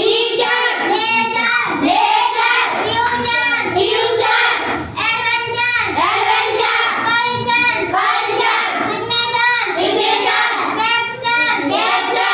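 Children's voices chanting words together in a sing-song rhythm, a regular run of sung syllables with no break.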